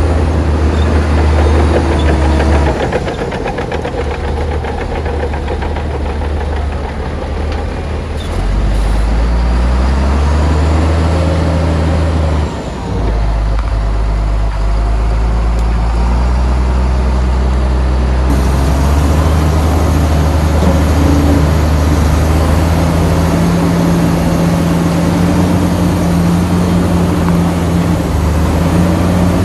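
Heavy earthmoving machine's diesel engine running under changing load, its low rumble rising and falling in pitch several times. The sound changes abruptly about two-thirds of the way through.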